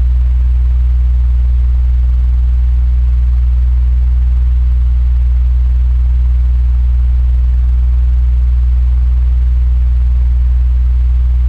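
Electric fan running steadily: a strong, unchanging low hum with a faint hiss of air above it.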